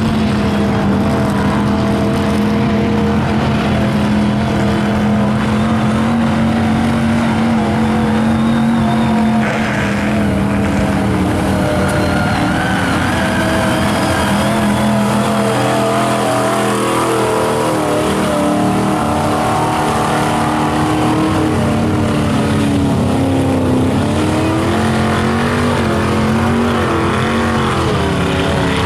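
Mud-bogging truck's engine running hard at high revs. Its pitch holds steady at first, then rises and falls again and again in the second half as the throttle is worked.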